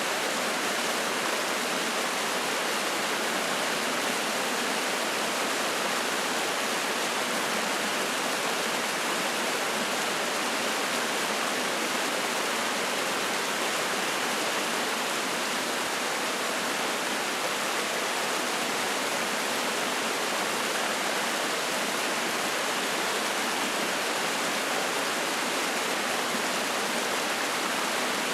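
Spring-fed mountain stream flowing and splashing: a steady, unbroken rush of water.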